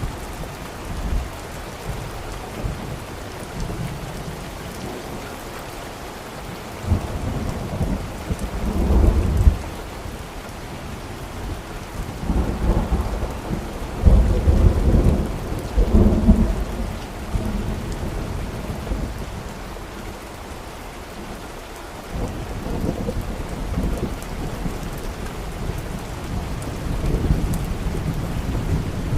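Steady rain with rolling thunder: deep rumbles swell about a third of the way in and again at the middle, the loudest, with another building near the end.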